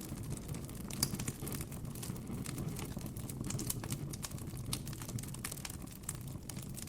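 Campfire crackling: irregular sharp pops and snaps of burning wood over a low, steady rumble of the flames.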